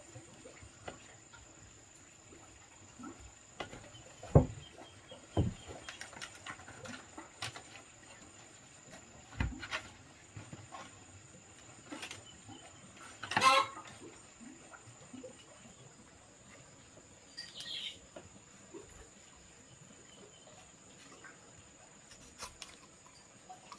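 Scattered light knocks and handling clatter with a few low thumps, and one short, louder animal-like cry about halfway through, over a steady thin high whine.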